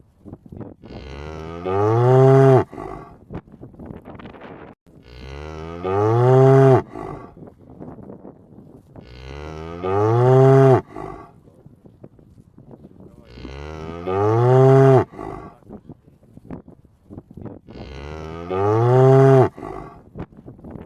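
A cow mooing: the same long moo repeats five times, about every four seconds, each rising in pitch and loudest near its end.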